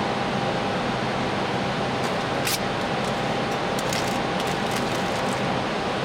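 Steady rush of airflow and air-conditioning noise inside an Airbus A321 cockpit in flight, with a faint steady tone and a few light ticks midway.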